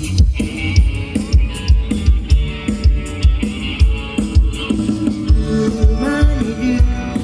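Instrumental band music with a steady drum-kit beat and shaker. Pitched instrument lines run over a kick drum hitting about twice a second.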